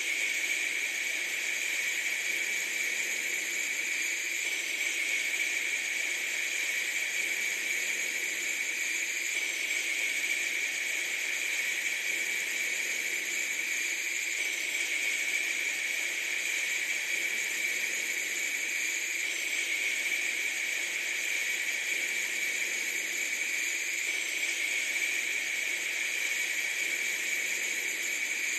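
Steady, unchanging hiss, brightest in the upper-middle range.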